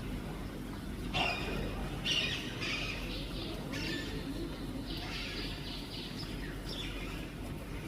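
Birds calling: a series of short, harsh calls spaced about a second apart, one longer stretch of calling a little past the middle, over a steady low background rumble.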